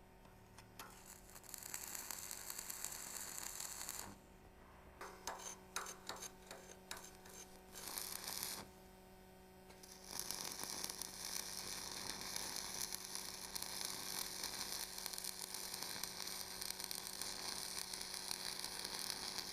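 Homemade stick welder built from microwave-oven transformers, arc welding: the electrode arc crackles and hisses in short bursts as it is struck, then burns for about nine seconds in a long run near the end. A steady transformer hum sits underneath. The arc is uneven and at low amperage.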